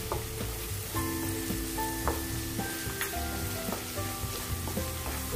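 Ginger-garlic paste and browned onions sizzling in hot oil in a pan while being stirred, the spatula knocking and scraping against the pan about once a second.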